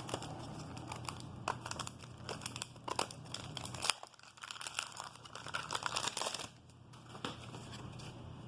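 A wax-paper card pack being torn open and crinkled by hand: a dense run of sharp crackles that stops about six and a half seconds in, leaving only faint handling.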